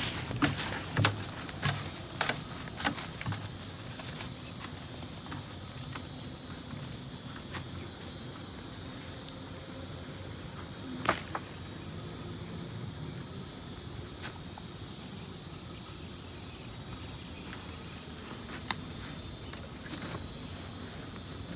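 Steady chorus of insects chirping. There are a few sharp clicks and knocks in the first four seconds, and one louder knock about eleven seconds in.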